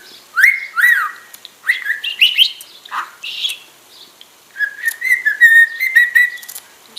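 Pet budgerigar singing: a run of short chirps sliding up and down, then a longer wavering warble with fine clicks from about halfway through.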